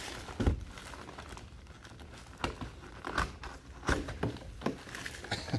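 Crinkling and rustling of a trading card box's packaging being opened and handled, with irregular sharp crackles and taps.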